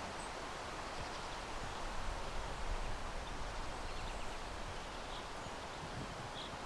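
Outdoor nature ambience: a steady hiss, like wind through leaves, with a couple of faint high bird chirps.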